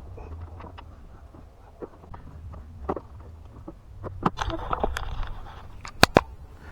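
Scattered light knocks and sharp clicks of things being handled, with a brief cluster of clicks about four seconds in and two sharp clicks near the end, over a low steady rumble.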